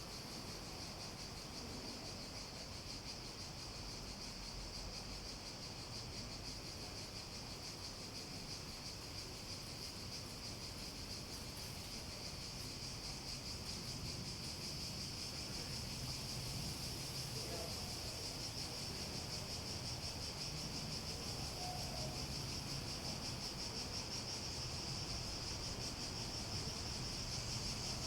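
Cicadas buzzing in one continuous high-pitched chorus, slowly growing louder over the second half.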